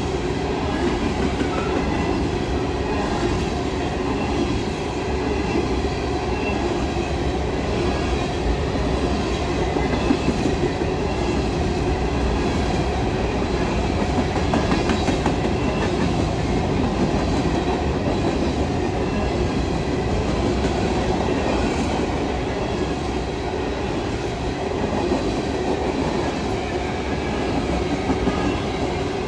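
Norfolk Southern freight train of grain cars passing fast: a steady, loud rumble and rattle of wheels on rail.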